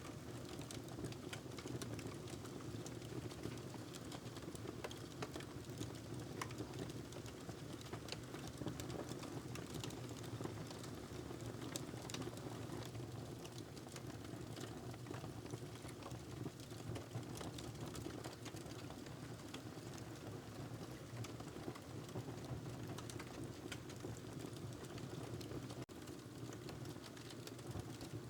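Wood fire crackling in a fireplace: many small irregular pops and snaps over a steady low rumble of flame.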